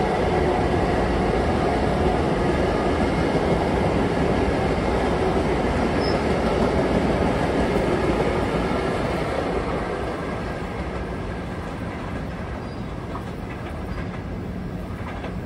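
Long Island Rail Road commuter train running past, loud and steady at first, then fading away from about ten seconds in.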